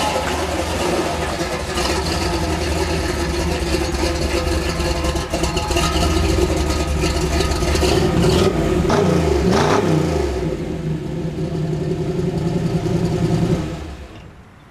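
Custom 1950 Studebaker Champion hot rod's engine running as the car pulls up and sits idling, with a brief rev up and back down about nine seconds in. The engine is switched off near the end.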